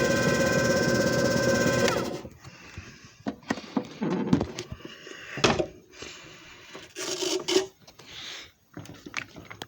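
JFJ Easy Pro disc repair machine running with a steady motor hum that winds down and stops about two seconds in. It is followed by a scatter of clicks, knocks and scrapes from handling the machine.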